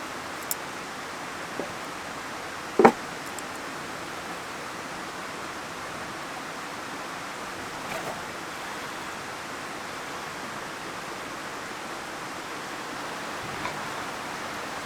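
Mountain stream flowing with a steady rush of water, with one sharp knock about three seconds in and a few faint ticks.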